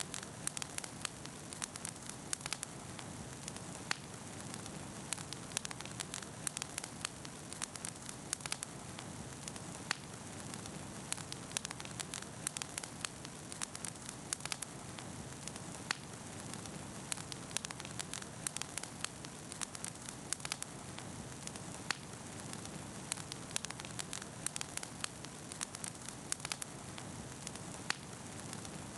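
Wood bonfire crackling, with frequent sharp, irregular pops over a steady hiss.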